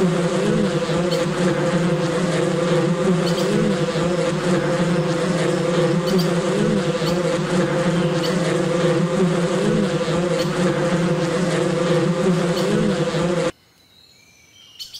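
Wasps buzzing in a swarm: a dense, steady drone of many wings that cuts off suddenly about a second and a half before the end.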